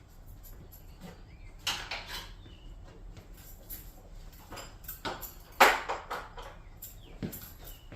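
Scattered metallic clanks and knocks of hardware and parts being handled during garage door removal, the loudest about halfway through.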